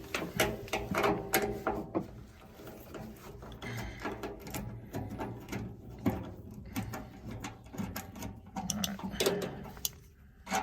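Irregular metallic clicking and rattling as fittings on a gas water heater's burner assembly are worked loose with a small hand tool and by hand.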